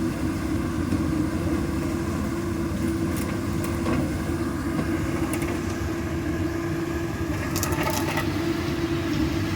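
Komatsu PC200 excavator's diesel engine running steadily with a low, even rumble, with a few light clicks about three, five and eight seconds in.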